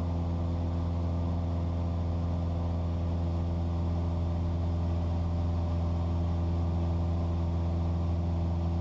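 Cessna 172's piston engine and propeller droning steadily during a slow climb near 10,000 feet, with an even, unchanging pitch.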